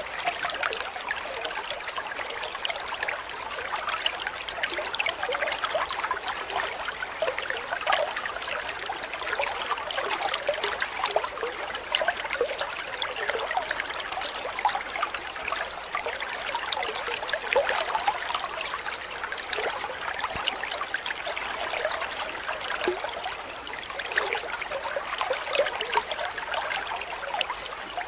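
Steady trickling, splashing stream water, mixed in as a background for a caged-bird song training recording.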